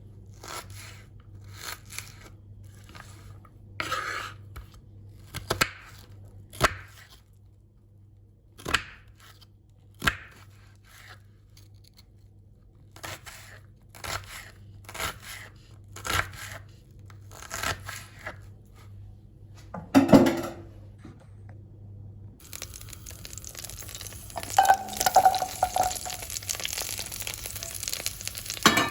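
Hand food preparation: a series of short, irregular crunching strokes, roughly one a second, then a louder knock, after which a steady sizzle of food frying in a hot pan starts about three-quarters of the way in and carries on.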